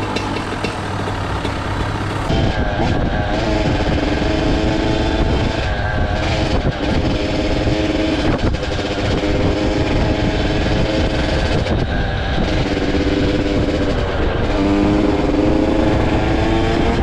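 Dirt bike engine running under load while riding, its pitch climbing and dropping repeatedly as it accelerates and shifts, over rushing wind noise.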